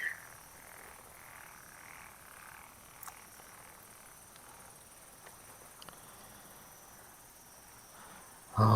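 Frogs croaking faintly and repeatedly at a pond at night. Near the end a man's voice cuts in loudly.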